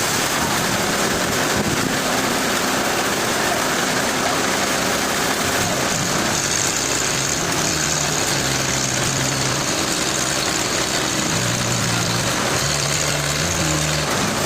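Heavy machine engine running over a steady loud rushing noise; its low hum steps up and down in pitch several times in the second half.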